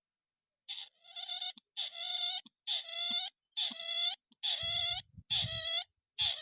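Crake call: a nasal, pitched note repeated about once a second, six times. A brief low rumble sounds under the fourth and fifth notes.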